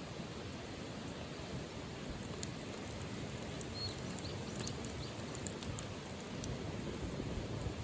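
Steady light rain, with scattered drops pattering and ticking from about two seconds in.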